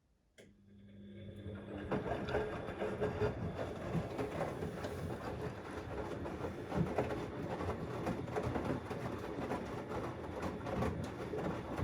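Siemens XLS 140 A front-loading washing machine's drum starting to turn again after a pause: a click, then the motor hum rising over about two seconds. After that the load of wet cleaning rags tumbles steadily in the drum.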